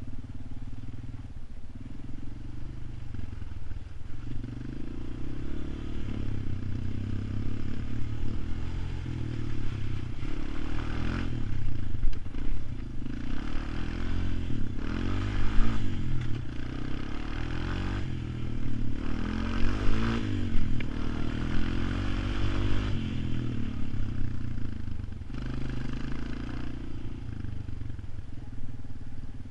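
ATV engine running, revved up and down several times, loudest in the middle stretch.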